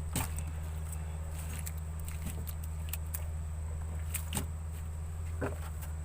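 A steady low hum with a thin high steady tone over it, broken by a few sharp knocks and clicks.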